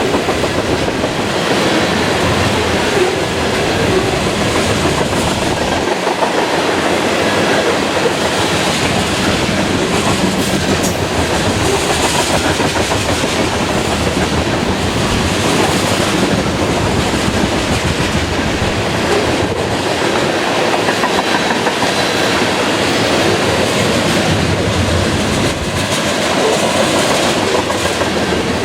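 A train's cars rolling steadily past, wheels clickety-clacking over the rail joints.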